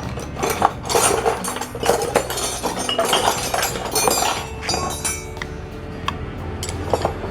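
Metal tools and engine parts clinking and knocking against each other, repeated irregular clinks, over background music.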